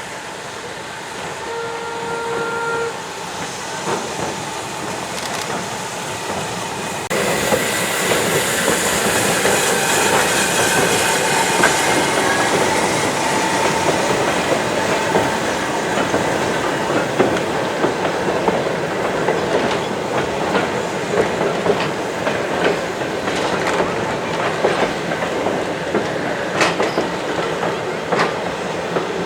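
A train running along the track, its wheels clattering over the rail joints, with a short whistle about two seconds in. About seven seconds in the sound suddenly becomes louder and closer.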